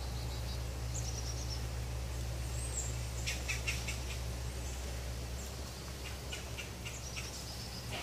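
Small birds chirping in short high calls and a few falling whistles, in clusters about three seconds in and again near the end, over a steady low hum.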